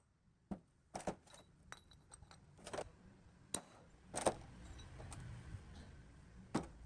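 Metal parts and tools clinking and knocking in a workshop: a dozen or so sharp, irregular knocks, some ringing briefly, with a low steady hum joining about four seconds in.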